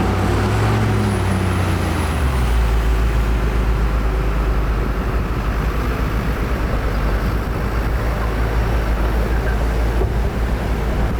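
Heavy diesel earthmoving machinery running, a deep steady rumble with a wash of noise; an engine note rises and falls in the first two seconds.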